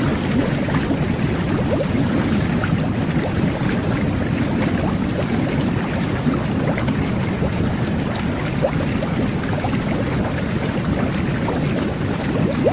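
Whirlpool jet bath running: water churning and bubbling steadily from the jets.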